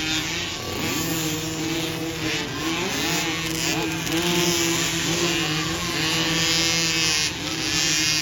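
Small motocross bike engines running and revving, their pitch rising and falling repeatedly.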